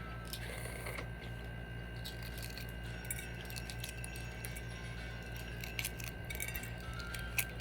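Light scattered clicks and clinks of balut eggshell being cracked and picked away by hand, more frequent in the second half, over a steady low hum.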